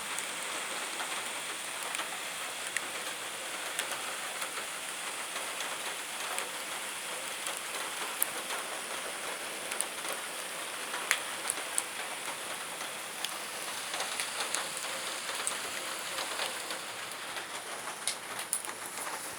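Steady rain falling, with sharper individual drops ticking now and then.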